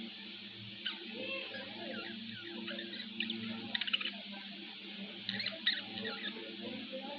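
Pet budgerigars chirping and chattering in quick clusters of short, high squeaky calls, over a steady low hum.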